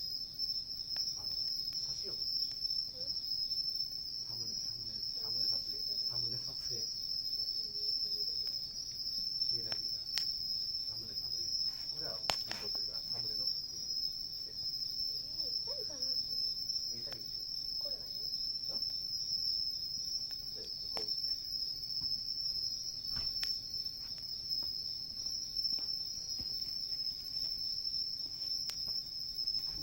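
Crickets chirping in a steady, continuous high trill, with a few faint snaps from a wood campfire.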